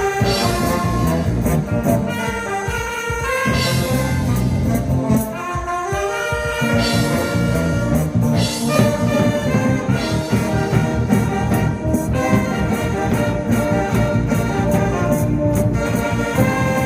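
An amateur band playing an upbeat pop tune live, with horns carrying long held melody notes over a steady beat.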